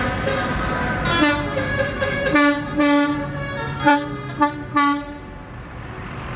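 Vehicle horns sounding about six toots of varying length on much the same pitch, between about one and five seconds in, over a steady background rumble.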